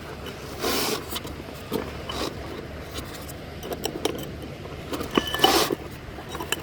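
Handling noise: scrapes, rustles and small knocks, with two short louder rushes of scraping, about half a second in and again about five seconds in.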